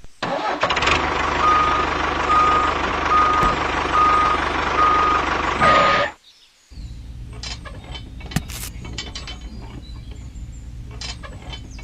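A vehicle's reversing alarm beeps steadily about twice a second over loud engine noise, then cuts off suddenly about six seconds in. After that comes a quieter, steady low engine hum with light clicks.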